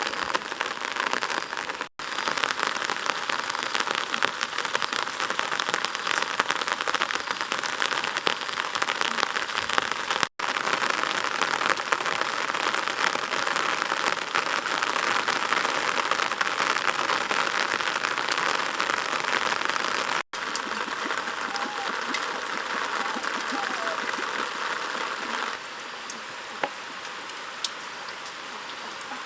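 Heavy rain falling steadily on a surface, a dense even patter, broken by three brief cut-outs and turning quieter near the end.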